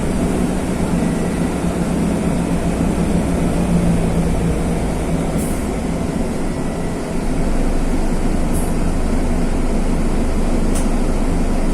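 Mercedes-Benz OF-1519's OM-924 LA four-cylinder turbodiesel running steadily, heard from inside the bus, with three brief high-pitched squeaks.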